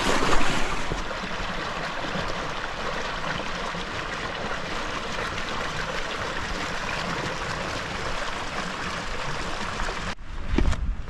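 Tahquitz Creek flowing over rocks, a steady rushing of water. About ten seconds in it cuts off abruptly to a quieter low rumble with a few knocks.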